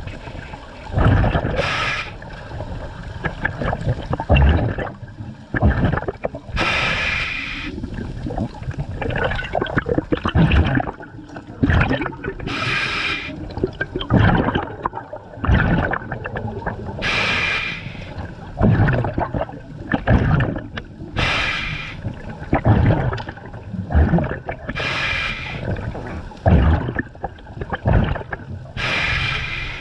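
Scuba diver breathing through a regulator underwater: a hissing inhale about every four to five seconds, each followed by a gurgling rush of exhaled bubbles.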